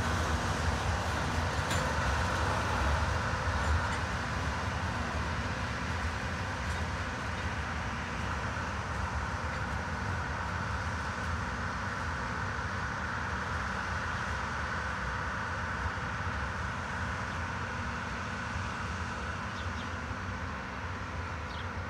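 Loram undercutter work train's ballast hopper cars rolling slowly along the track with a steady rumble that gradually fades as the train moves away.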